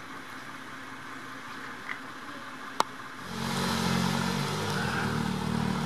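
Polaris Slingshot three-wheeler's engine running at low revs while it creeps forward in traffic, coming in about three seconds in as a steady low note. A single sharp click comes just before it.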